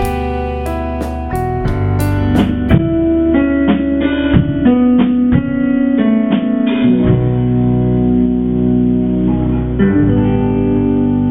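Instrumental passage of a rock song: a run of picked guitar notes, then, about seven seconds in, a sustained chord held and ringing on.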